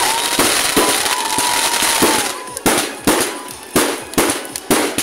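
Fireworks going off in a rapid string of loud bangs, about two a second. A steady high whistle sounds through the first two seconds.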